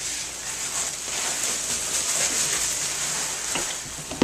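Steady hiss with faint rustling and scraping of a large cardboard box being handled and opened, and a sharp knock at the end.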